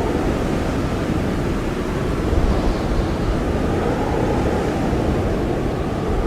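Blizzard wind blowing steadily, a dense low rush of noise with a faint steady whistle above it.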